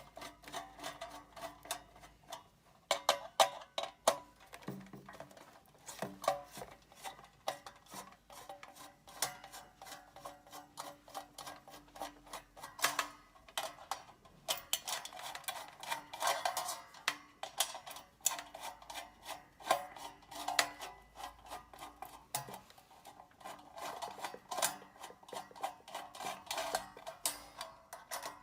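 A Phillips screwdriver unscrewing the screws of a halogen convection oven's top housing, with repeated irregular clicks, ticks and small metallic clinks as the screws turn and are handled.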